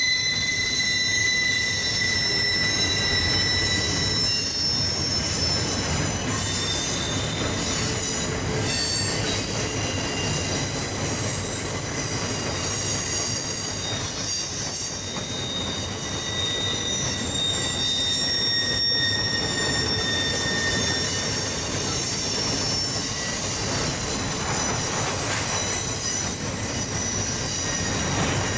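Freight train of container cars rolling past with a steady rumble of steel wheels on rail. Several high squealing tones from the wheels come and go and waver over it.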